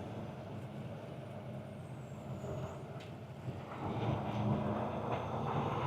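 Semi truck's diesel engine running at low speed, heard from inside the cab, getting louder about two-thirds of the way in.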